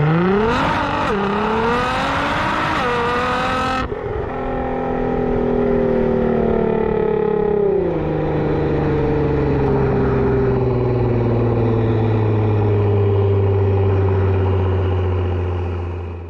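Nissan GT-R R35's twin-turbo 3.8-litre V6 through an ArmyTrix valved stainless exhaust, accelerating hard with a rising pitch and a quick gear change about a second in. The throttle is lifted suddenly just under four seconds in. The engine then drones at a steady, slowly falling pitch, stepping down again around eight seconds in as it shifts up.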